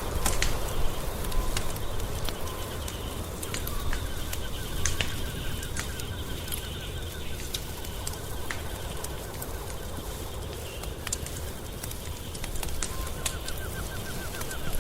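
Wood fire crackling, with irregular sharp pops over a low steady rumble. Behind it, an animal gives a rapid pulsed trill from about four to eight seconds in and again near the end.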